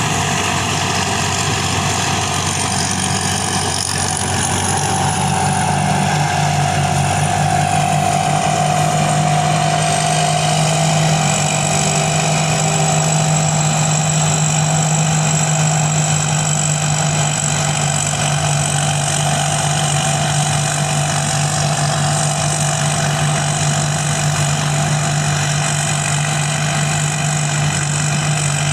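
Combine harvester from the Thai builder Thai Charoen Kan Chang, its engine running steadily with a thin high whine over the low hum.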